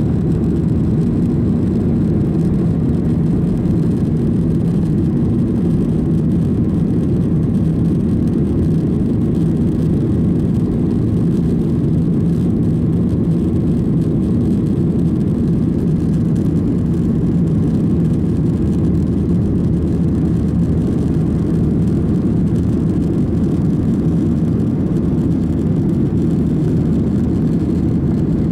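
Steady low drone of a Garuda Indonesia airliner's jet engines and airflow, heard from inside the passenger cabin, with a faint hum and no change in level.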